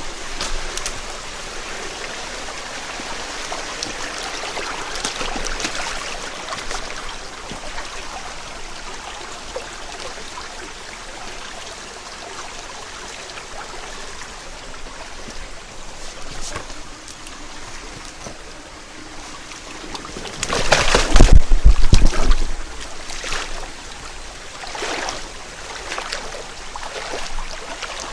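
Headwater mountain stream babbling steadily, with one much louder splashing, rumbling burst lasting about two seconds about twenty seconds in.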